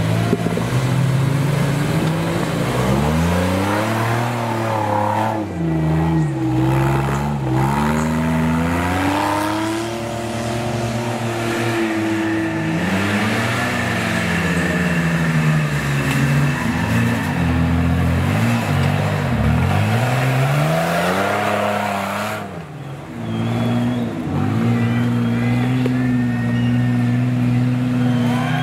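Off-road 4x4's engine revving up and down again and again, its pitch rising and falling every few seconds. It briefly drops away about three-quarters of the way through, then holds steady revs near the end.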